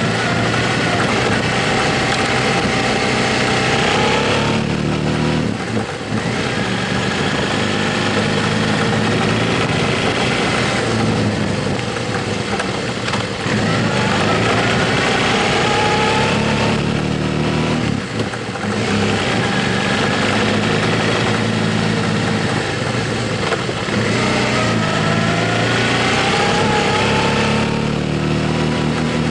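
Motorcycle engine under way, its pitch rising through each gear and briefly dropping at several gear changes, over a steady rush of wind and road noise.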